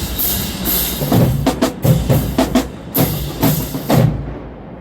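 Marching band drumline playing: heavy bass drum hits with cymbal crashes, struck about every half second, trailing off near the end.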